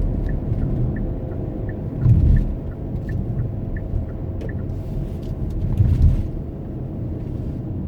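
A car driving, heard with a steady low rumble of engine and road noise, swelling louder twice, about two seconds in and again near six seconds. A light, regular ticking runs through it at about three ticks a second.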